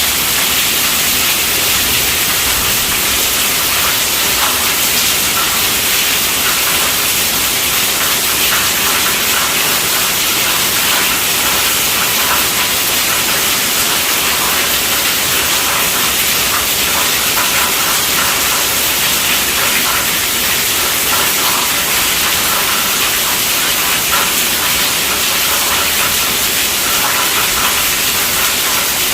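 Steady, heavy rainfall: an even hiss of falling rain.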